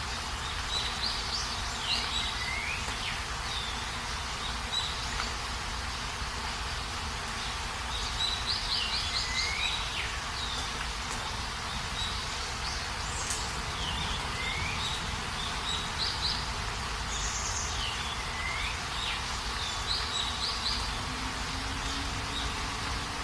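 Birds calling over a steady hiss of rain. Phrases of quick chirps, short trills and downward-sliding whistles recur every few seconds.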